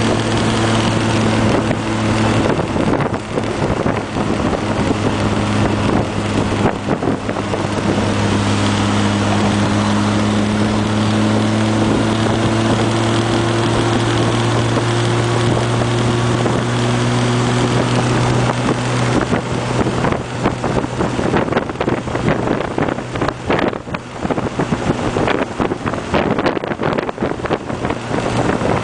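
Austin-Healey Sprite's four-cylinder engine running at a steady cruise with wind rushing into the open car. The engine note rises gently through the middle, and wind buffeting on the microphone grows heavier in the second half.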